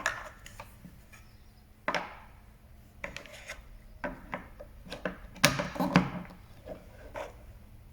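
Toys being handled: a string of knocks, taps and scrapes, with the loudest clatter about five and a half to six seconds in.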